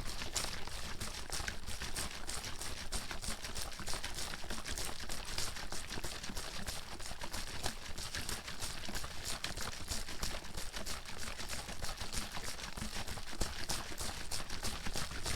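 Water sloshing and knocking inside a bottle being shaken hard and continuously, a fast, even clatter that does not let up.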